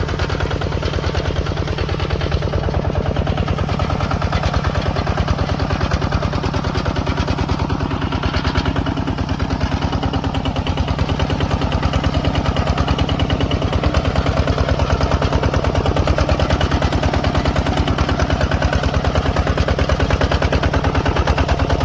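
ZT155 Pro tractor engine running steadily under way, with a fast, even pounding beat that does not change.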